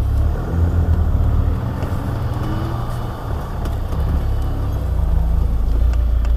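Land Rover Defender's engine running as it drives over sand, a low rumble that grows louder over the last second or so.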